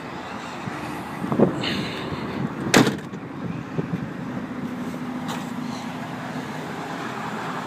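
Ford Expedition's 5.4-litre V8 idling steadily, with a sharp knock about three seconds in and a lighter one a second or so before it.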